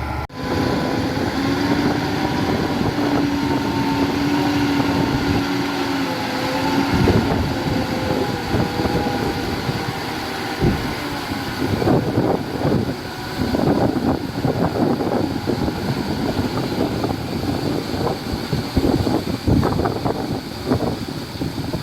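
Diesel engine of heavy earthmoving machinery running with a steady, slightly wavering hum. From about a third of the way in, irregular gusts of wind buffet the microphone over the engine.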